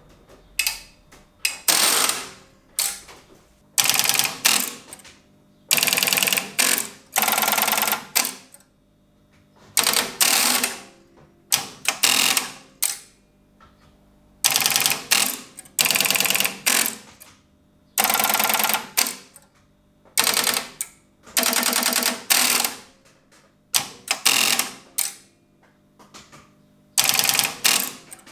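Strowger step-by-step telephone exchange switches stepping: repeated bursts of rapid electromechanical clicking, each under a second long, one every second or two with short quiet gaps between.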